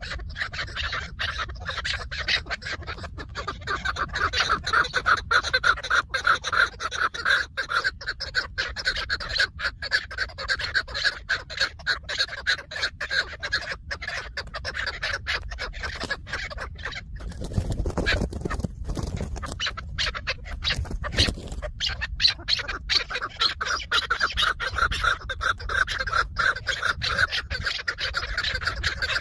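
Chukar partridges calling: a fast, continuous run of clucking notes. Low rumbling noise comes in briefly past the middle.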